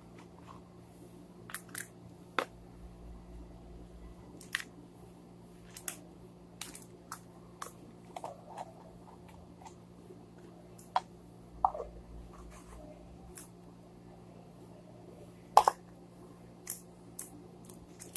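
Scattered light clicks and taps of small objects being handled, about a dozen at irregular intervals with the loudest near the end, over a steady low hum.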